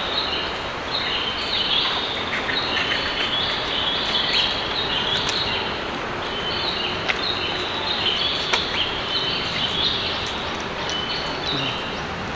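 Birds chirping in quick runs of short, high notes, repeated again and again, over a steady rushing background noise.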